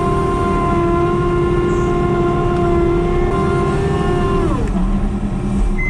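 Farm tractor engine running steadily at high revs, then throttled down to a lower, slower note about four and a half seconds in.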